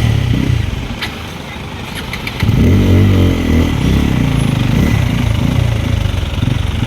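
Motorcycle engine running on the move, easing off briefly, then revving up and pulling harder from about two and a half seconds in, with a few light clicks just before.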